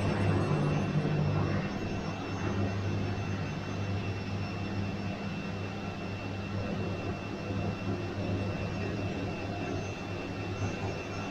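Washing machine running: a steady low motor hum with a thin, constant high-pitched whine above it.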